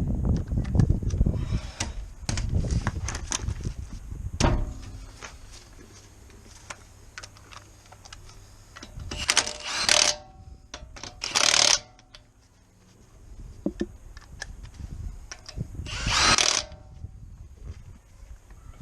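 A run of metallic clanks and knocks, then three separate bursts of about a second each from a power tool, most likely a cordless impact gun running down or tightening fasteners.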